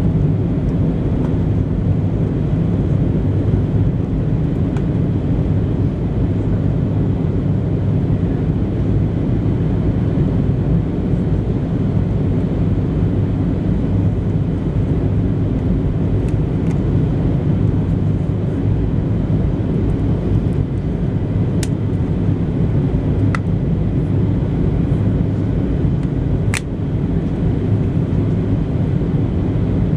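Steady cabin noise of a Boeing 737-700 in flight: an even, low rumble of airflow and the CFM56-7B engines. A few faint clicks come in the second half.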